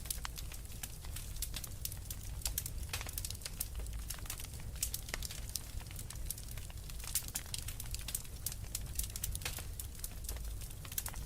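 Wood fire crackling in a fireplace, with many small sharp pops and snaps at irregular intervals over a low steady rumble.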